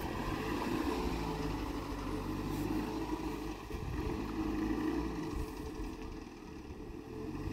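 Peugeot 405 sedan's engine as the car drives away along a dirt track, its sound easing off as it recedes.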